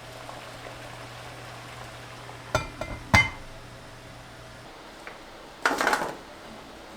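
Kitchen sounds: a low steady hum that stops about two-thirds of the way through, two sharp clinks of dishes near the middle, and a short rush like liquid being poured near the end.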